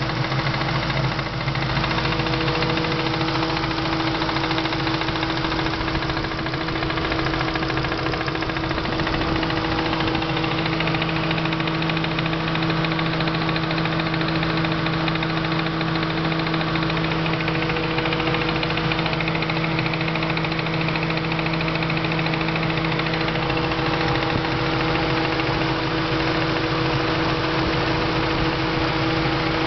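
Supercharged car engine running at a steady speed with a loud, rapid knock. The knock tends to appear after the engine has been driven hard on its supercharger and fades after a while; the owner has not found its cause.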